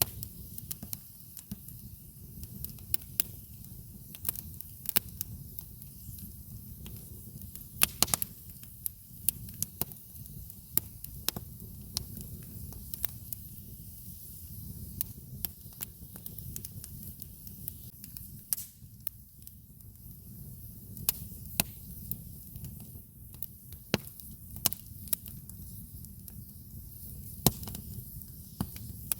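Campfire crackling: wood popping and snapping at irregular intervals, with a few louder pops about eight seconds in and near the end, over a steady low rumble.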